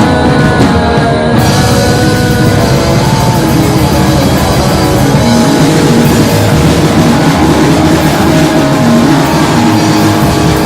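Live rock band playing an instrumental passage: two electric guitars, bass guitar and drum kit, loud and steady, with cymbals filling in the top about a second in.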